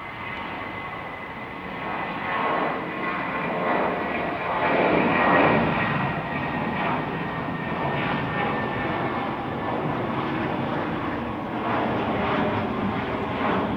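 An airliner's engines heard as it passes on a takeoff or landing. The rushing engine noise swells to its loudest about five seconds in, with a steady high whine at first, then stays strong with another swell near the end.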